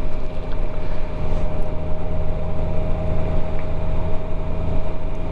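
Motorcycle engine running steadily under way, a low drone with a steady higher whine above it and rushing noise.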